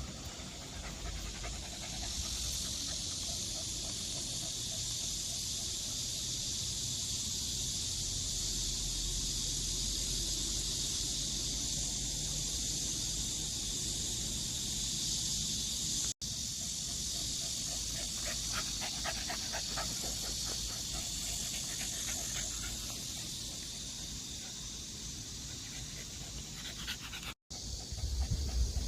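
A dog panting, its quick run of breaths clearest a little past the middle, over a steady high hiss.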